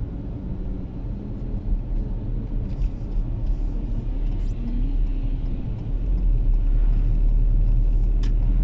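Car driving, heard from inside the cabin: a steady low rumble of engine and tyres that grows a little louder about six seconds in, with a single sharp click near the end.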